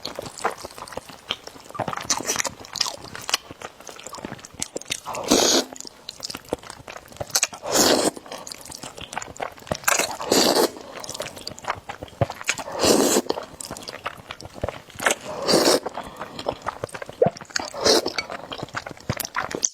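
Close-miked eating of noodles: wet chewing and smacking clicks throughout, with about six longer slurping rushes spaced two to three seconds apart.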